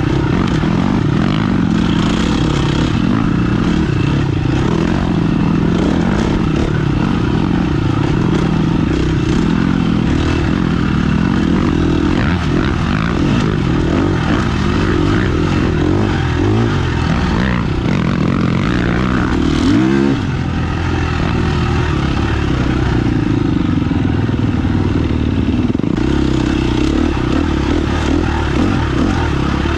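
Off-road motorcycle engine running continuously under changing throttle as the bike rides a woodland trail, its pitch rising and falling, with a quick sharp rev about twenty seconds in.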